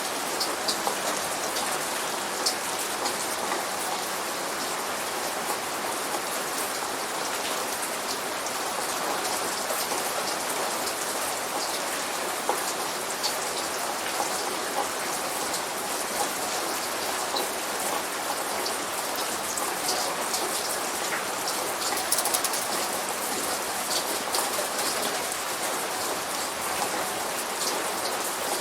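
Light rain falling steadily, with separate drop hits heard now and then over the even hiss.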